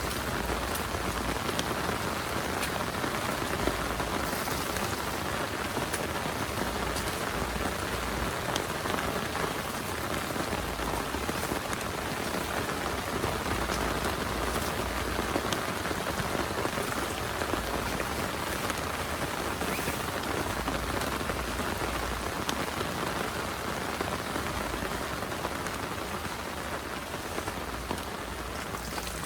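Heavy rain falling steadily, a dense hiss with scattered sharper drop ticks.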